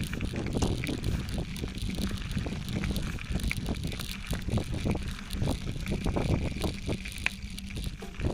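Bicycle riding down a dirt forest trail: tyres rumbling over the ground with frequent irregular rattles and knocks from the bike over bumps, and wind buffeting the microphone.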